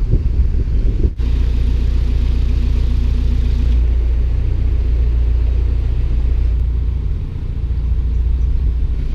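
Narrowboat engine running at low revs in a lock: a steady low rumble, broken by a brief dropout about a second in.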